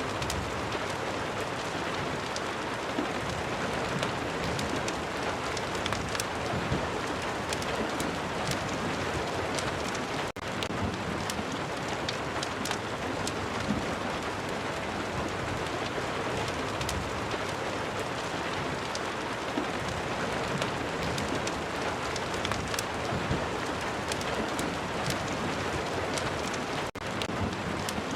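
Steady heavy rain with a fireplace crackling, sharp little pops scattered through it. The sound drops out for an instant twice, about ten seconds in and near the end.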